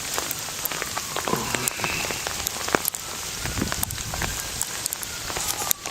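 Heavy sleet falling and striking hard surfaces: a dense hiss made of countless small sharp ticks of ice pellets.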